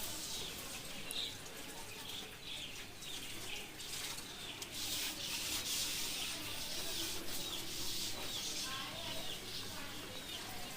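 Rubbing, scrubbing noise, with short high chirps repeating about twice a second.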